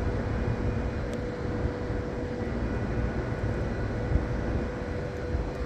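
Strong, gusty wind of a near-blizzard snowstorm rumbling on the microphone, with a faint steady hum underneath.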